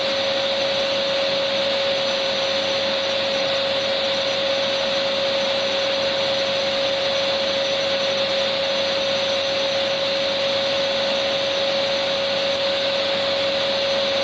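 Vacuum cleaner running steadily, a constant whooshing hiss with a steady hum, used as white noise to lull babies to sleep.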